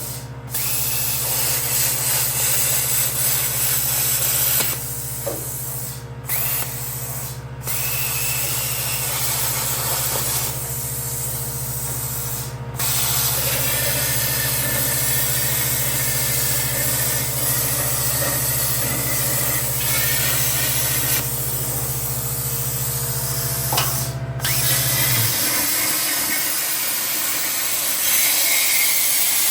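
Plasma cutter cutting sheet steel: a steady hiss of air and arc over a low machine hum, broken by a few brief stops as the trigger is let off. The low hum cuts out near the end while the hiss goes on.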